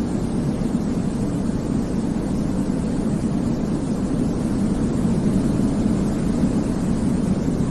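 Steady, deep white noise for infant sleep: an even, low-pitched hiss that does not change in level.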